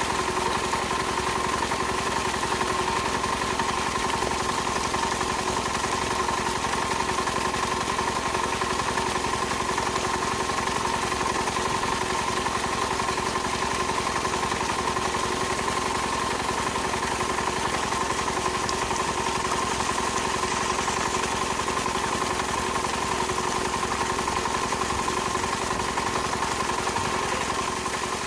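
Small motor of a miniature DIY machine running steadily, a constant whine with an even hum underneath that fades right at the end.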